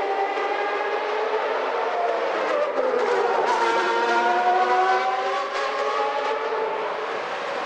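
Naturally aspirated 3.5-litre Formula One engines at high revs, several cars heard at once, their pitches sliding down and back up as they change gear and pass.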